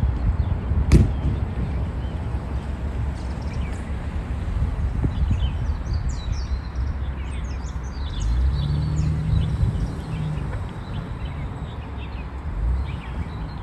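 Many short, high chirps of small birds over a steady low rumble, with a sharp click about a second in. A low engine hum, like a passing vehicle, comes in about eight seconds in and fades about two seconds later.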